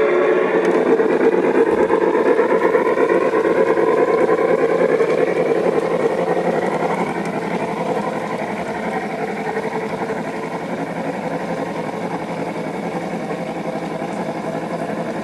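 Model railroad locomotive's motor and gears running along the track, a steady rhythmic mechanical whir that slowly gets quieter after about six seconds.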